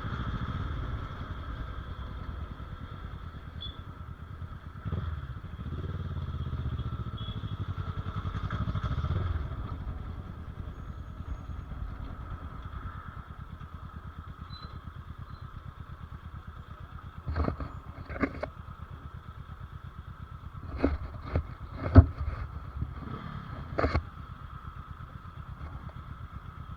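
Motorcycle engine running on the move, its pitch rising and falling a few times early in the stretch and then holding steady. In the second half come several sharp knocks, one much louder than the rest.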